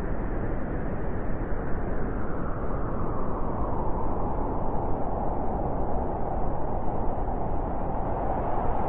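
Blizzard wind: a steady, dense rush of noise with a howling band that grows stronger a few seconds in.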